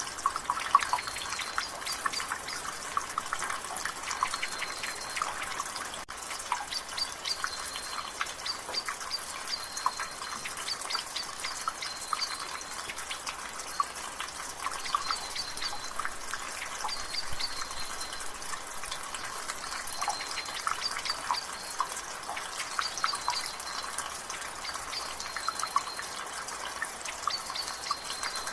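Water dripping from a gutter in light rain: a steady patter with many irregular drips, and faint high bird chirps recurring every second or two.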